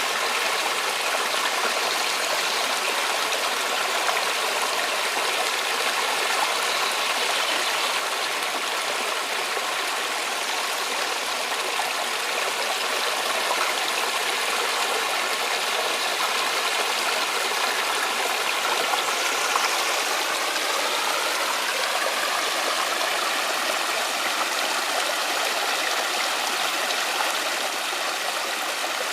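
Rushing water of the Kobalar-Su mountain stream, a steady, even flow.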